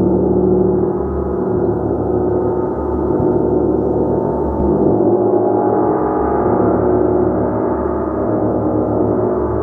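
A large gong played continuously, its many overlapping tones sustaining in a dense, shimmering wash with a low hum that pulses about once a second.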